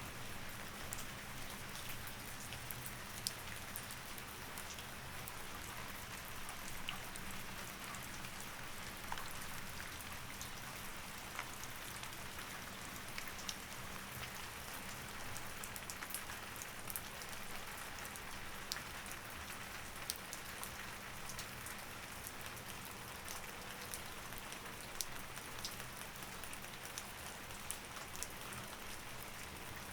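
Steady rain with scattered sharp drops pattering on a surface, over a low steady hum.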